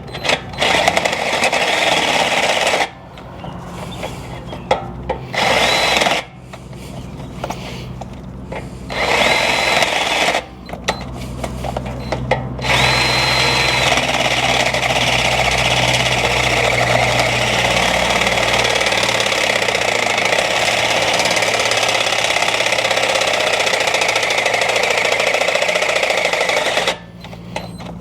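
Cordless power tool running in several short bursts with a high motor whine, then in one long steady run of about fourteen seconds, on a battery that is nearly spent.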